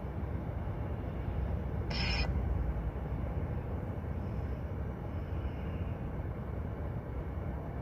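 Steady low background rumble, with a short hiss about two seconds in.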